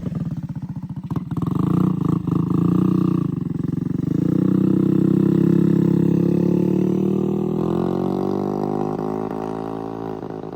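Engine-swapped moped being ridden off. It revs up with a few sharp pops in the first two seconds, then climbs in pitch and runs on while fading away.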